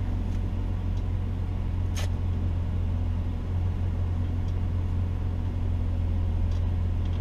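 BMW E46 M3's straight-six engine idling steadily, heard from inside the cabin, with a single sharp click about two seconds in.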